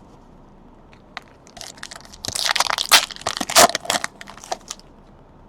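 Foil trading-card pack wrapper crinkling and tearing as it is opened, a few seconds of crackly rustling that is loudest in the middle.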